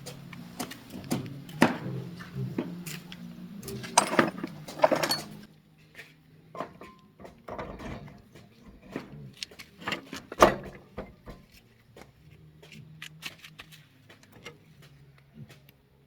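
Scattered clicks, taps and clanks of metal parts and tools being handled, with a low steady hum under the first five seconds or so that then stops.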